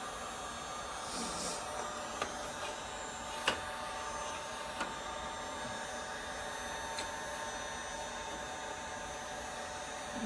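Electric heat gun running steadily with a fan-like whir, broken by a few short sharp ticks, the loudest about three and a half seconds in.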